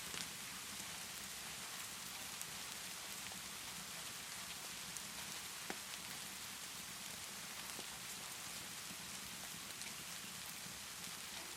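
Steady rainfall, an even hiss, with a few sharp pops from a crackling wood fire. The clearest pops come right at the start and about six seconds in.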